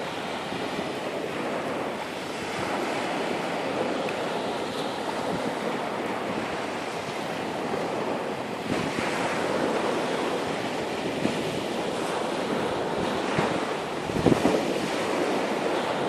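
Ocean surf washing onto a beach, a steady rush of waves with wind buffeting the microphone, swelling louder near the end.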